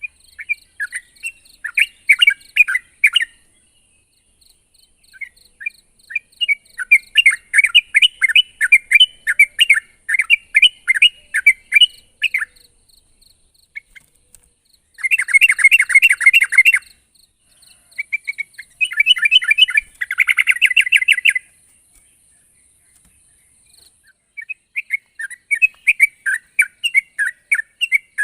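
Yellow-vented bulbul singing vigorously: bubbly, chattering phrases of quick notes with short pauses between them, and two dense rapid bursts about halfway through.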